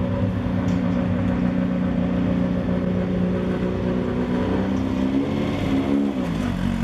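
A vehicle engine running at a steady idle. About five seconds in it is revved briefly, rising in pitch, then drops sharply back to idle.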